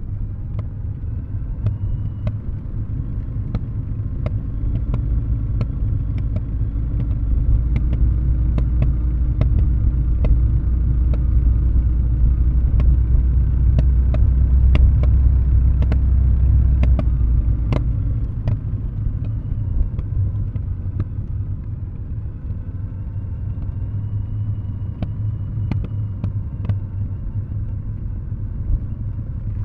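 Kawasaki W650's air-cooled parallel-twin engine through aftermarket Nasert Trad mufflers, running at low revs with the throttle closed as the bike coasts downhill: a steady low exhaust rumble that swells through the middle and eases off about eighteen seconds in. Frequent short sharp clicks are scattered over it.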